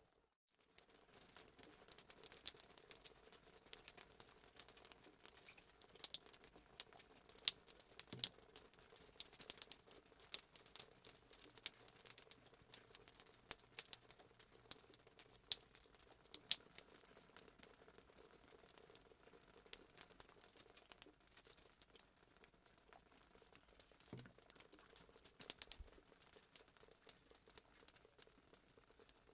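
Fireplace sound effect: a wood fire crackling faintly with dense, irregular pops. It cuts out for a moment right at the start.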